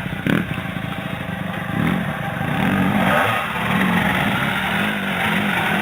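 Dirt bike engine revving up and down, its pitch rising and falling with the throttle, and getting louder about two seconds in as the bike comes closer.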